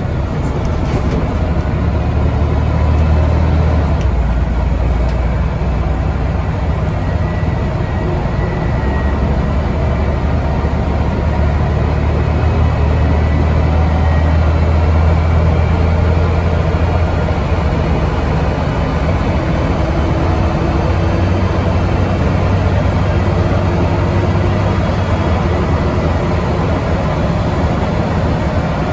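Scania N94UD double-decker bus's Euro 3 diesel engine and ZF automatic gearbox running under steady load, with a deep, even drone that swells for a few seconds midway.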